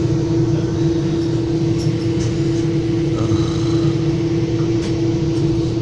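Inside a Metra commuter train coach: a steady, loud hum with a constant tone over a low rumble.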